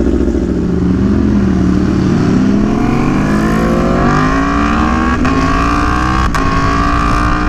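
Aprilia Tuono V4 1100 Factory's V4 engine running, its revs dipping and then climbing steadily for a few seconds before holding, with two short sharp clicks near the end.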